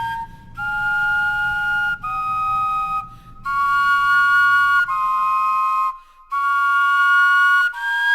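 Vegetable wind instruments playing a slow, whistle-like melody in two parts, each note held about a second with short breaks between phrases.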